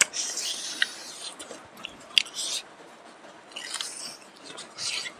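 Close-miked chewing and biting of smoked pork off the bone, in several short bursts with a couple of sharp clicks.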